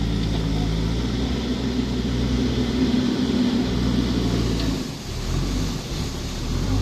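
Engine of heavy earth-moving machinery running steadily, easing off briefly about five seconds in and then picking up again.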